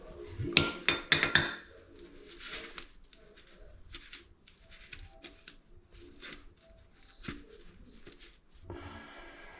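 Small metal hardware clinking and knocking together as it is handled, with several sharp ringing clinks about a second in. These are followed by quieter scattered clicks and rubbing.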